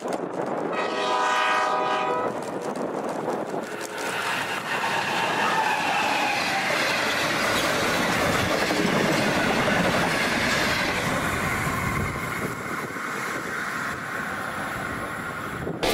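Diesel locomotive sounds its multi-note horn once, about a second in, for about a second and a half. Then the train passes close by: the locomotive, then stainless-steel passenger carriages, with the wheels running on the rails in a steady rush that stops abruptly near the end.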